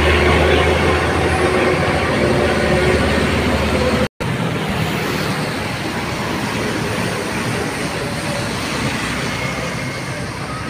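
Bus diesel engine running with a steady low hum as the bus pulls away. It breaks off abruptly about four seconds in and gives way to a steady haze of road and traffic noise.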